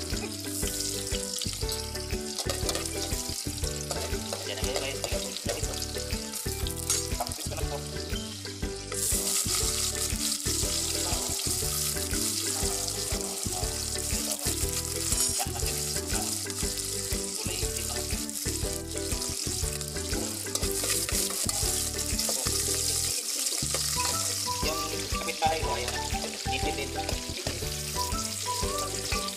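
Chopped garlic and sliced onion sizzling in hot oil in a pot, the sizzle growing louder about nine seconds in, with a spoon stirring near the end. A steady low beat of background music runs underneath.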